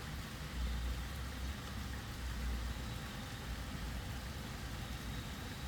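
Steady rain falling, an even hiss, with a low rumble underneath that swells twice in the first few seconds.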